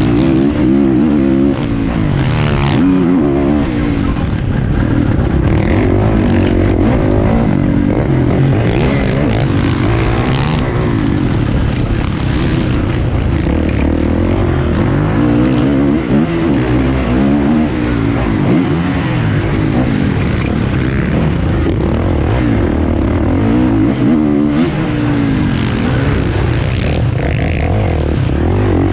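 450cc motocross bike engine revving hard, its pitch rising and falling over and over with the throttle and gear changes.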